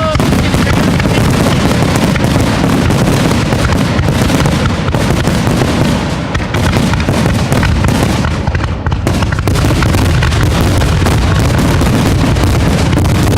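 Dense barrage of aerial fireworks: overlapping booms and crackling bursts with almost no gaps, easing briefly about six seconds in and again near nine seconds.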